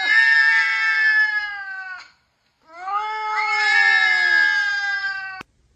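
Cat yowling: two long drawn-out cries, each slowly falling in pitch, with a short break between them about two seconds in.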